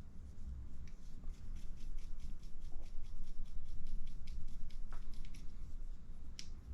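Light, quick clicks of a small hex driver and metal parts as a tiny 1.5 mm screw is fitted into the bleed hole of an RC shock cap, several ticks a second with a cluster near the end.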